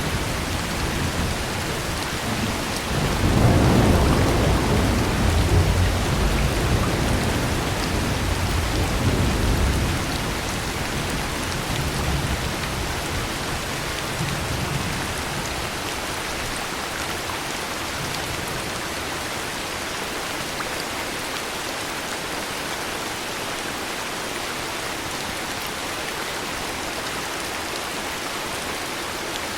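Heavy rain falling steadily, with a long low roll of thunder that swells about three seconds in and dies away by about ten seconds in.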